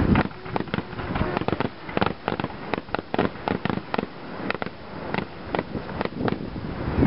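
Fireworks display going off in a rapid barrage of bangs and crackles, several reports a second.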